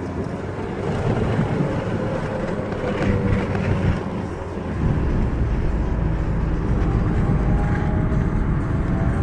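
Car engines running close by with rough, uneven noise; about halfway through a steadier low engine note takes over, and near the end an engine begins to rise in pitch as a car accelerates.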